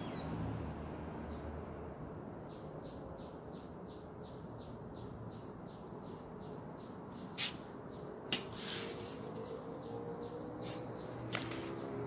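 A songbird singing a rapid trill of quick, high, downward-sliding notes, about four or five a second, followed by a few short sharp calls, over a steady outdoor background hiss.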